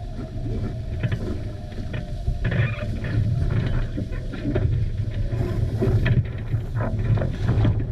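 Wind buffeting the microphone over the rush and splash of water past the hulls of a sailing catamaran moving fast in strong wind.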